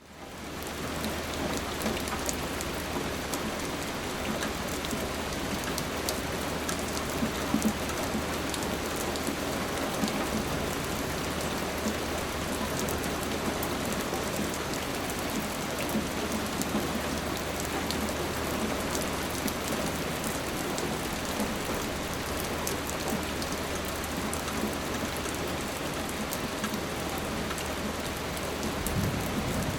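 Steady rain falling: a dense, even hiss with scattered sharper drop ticks over a low steady hum. It fades in during the first second.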